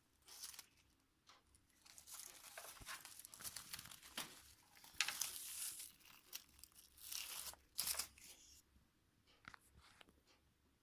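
Thin craft material crinkling and tearing as it is handled, in several bursts, loudest in the middle. A few small clicks come before and after.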